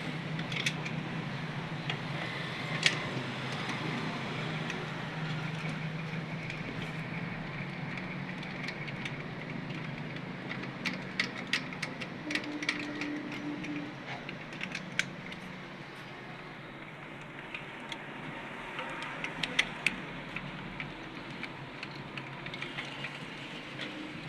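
Scattered sharp metallic clicks and clinks, like hand tools and small metal parts being handled, over a steady low hum.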